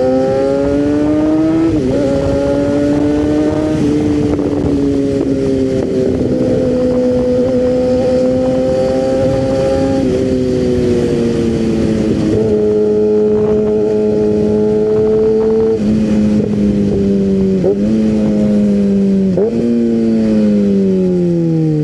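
Kawasaki ZX-6R 636 inline-four engine under way, holding steady revs with several sudden drops in pitch as it shifts up, then revs falling steadily near the end as the bike slows. Wind noise runs underneath.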